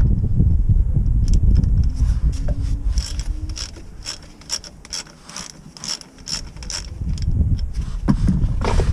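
Hand socket ratchet clicking in a run of strokes, about two to three clicks a second, over a low rumble, with a louder knock near the end.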